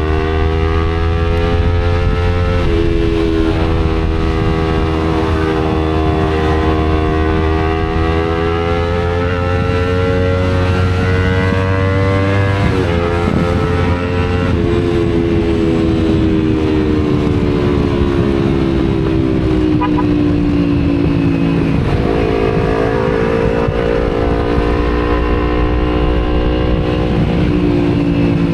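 Kawasaki Z250 motorcycle engine through an Akrapovic exhaust, ridden in traffic. Its pitch rises and falls with the throttle, with sudden steps at gear changes about three, thirteen and twenty-two seconds in.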